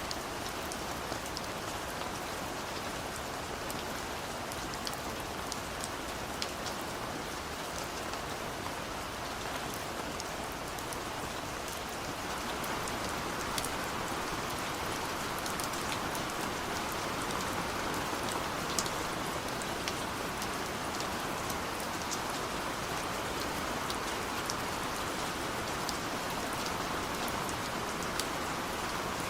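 Steady rainfall: a continuous hiss of rain with scattered individual drops ticking on surfaces, swelling slightly about halfway through.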